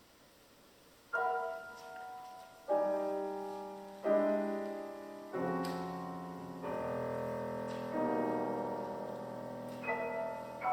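Solo acoustic piano playing a slow series of loud, full chords, about seven in all, starting about a second in. Each chord is struck sharply and left to ring into the next.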